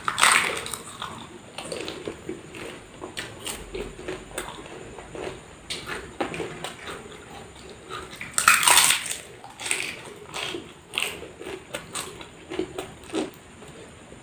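Close-miked eating: crisp food being bitten and chewed in a string of crunches. The loudest bites come right at the start and about eight seconds in, with smaller crunches and mouth sounds in between.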